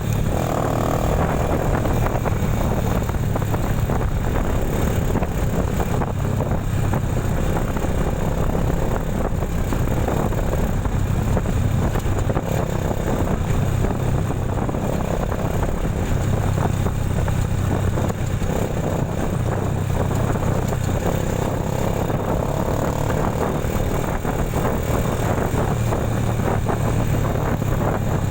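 A vehicle on the move: a steady engine hum with road and wind noise, at an even level throughout.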